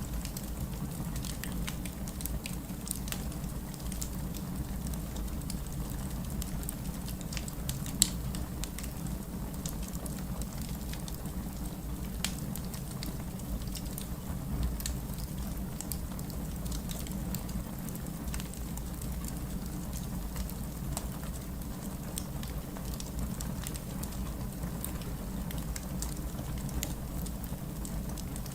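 Steady rain with a crackling wood fire: a continuous low rush of rain, with scattered pops and snaps from the fire, one sharper pop about 8 s in.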